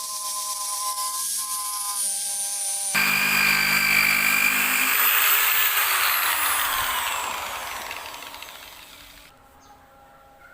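Electric drill fitted with a sanding attachment, running with a steady whine, growing louder and rougher about 3 s in as it sands off paint residue, then winding down with falling pitch and stopping near the end.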